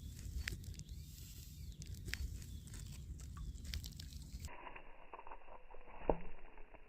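Faint low rumble of ambient noise with scattered small clicks and taps. About four and a half seconds in it cuts abruptly to a thinner, muffled-sounding recording with a few sharp knocks.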